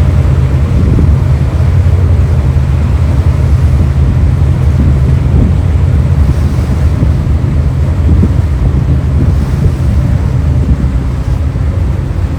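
High-speed passenger craft Super Jet Miyajima under way, its engines giving a steady low drone under rushing water, with wind buffeting the microphone.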